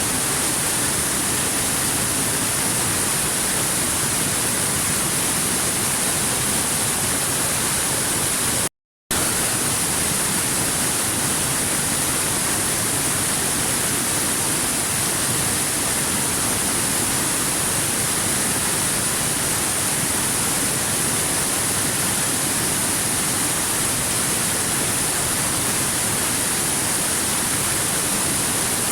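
Waterfall: a steady, even rush of falling water with no change in level. It cuts out completely for a fraction of a second about nine seconds in, then resumes unchanged.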